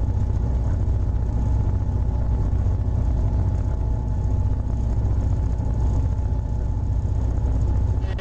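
Heavy engine running at a steady pace, a deep constant rumble with a faint steady whine over it.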